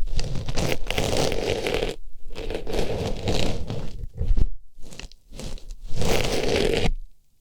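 Artificial rose rustling and scraping as it is pushed into and rubbed around a microphone's ear, in three long stretches of close crackling, crunching noise with short pauses between.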